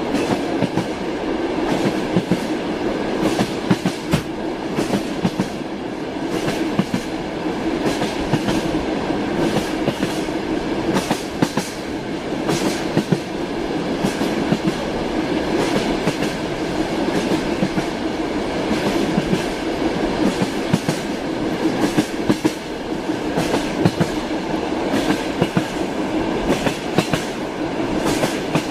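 Train running steadily: a constant rumble from the moving cars, with wheels clicking over rail joints many times throughout.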